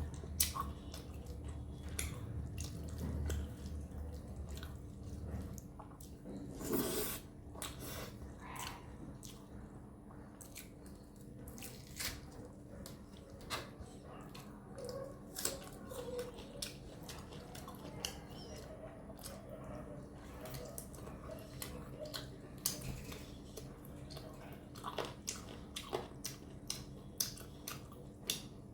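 Close-miked eating of chicken curry and rice: wet chewing, lip smacks and many small sharp mouth clicks, with one louder noisy burst about seven seconds in.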